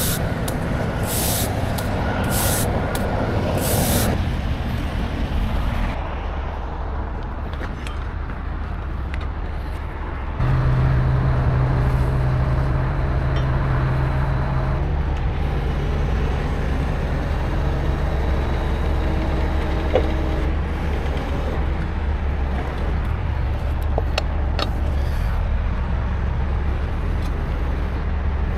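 Heavy truck's diesel engine running steadily, with a few short hisses in the first few seconds. About ten seconds in the engine note steps up louder and holds.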